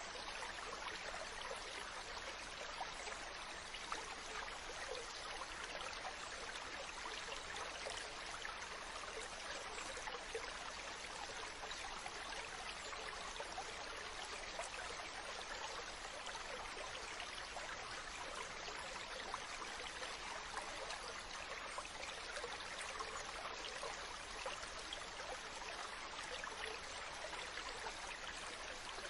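Mountain stream running over rocks: a steady rush of water with fine babbling and splashing.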